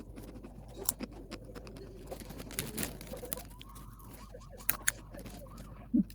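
Close-up eating sounds from a rice meal: scattered sharp clicks and smacks of a spoon and mouth.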